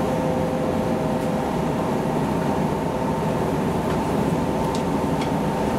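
Steady hum of a stopped JNR 115 series electric train's onboard equipment and air conditioning, heard inside the car, with a few faint clicks in the second half.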